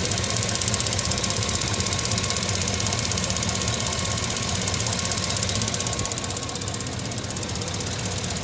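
2008 GMC 2500HD's 6.0-litre Vortec V8 idling with a rapid, even ticking, too fast for lifters. The owner wonders whether it is normal fuel-injector noise or lifter tick; the truck runs fine with no check-engine light. The sound gets a little quieter about six seconds in.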